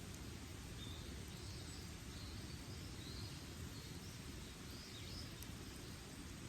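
Steady rush of a mountain river, with a bird chirping faintly several times over it.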